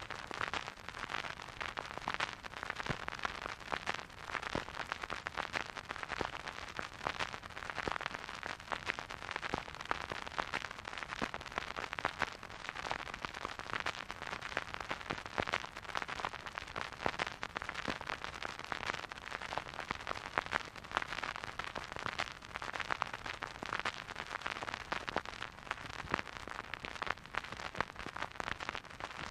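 Vinyl record surface noise on a spinning turntable: dense, steady crackle and small pops over a soft hiss.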